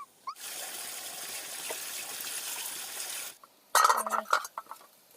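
A steady rush of water lasting about three seconds, which cuts off abruptly. It is followed by a short run of loud, sharp clattering sounds.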